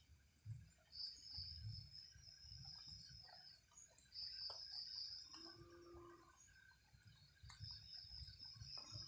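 Faint night insects trilling high and steady in runs of about a second, again and again, over soft low rumbles; a faint brief tone about five and a half seconds in.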